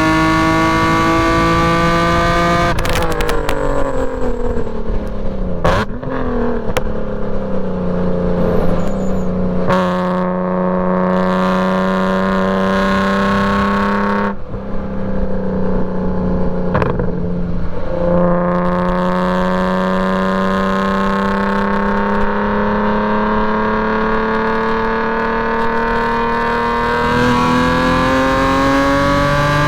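Straight-piped BMW E46 M3 inline-six at speed on a track. The revs climb, then fall away for several seconds under braking with short sharp blips on the downshifts. The engine then pulls back up with brief breaks at the gear changes and rises steadily through the last ten seconds.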